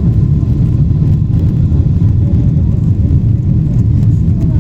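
Boeing 777-300ER's GE90 jet engines running, heard inside the passenger cabin as a loud, steady low rumble with a faint high tone over it.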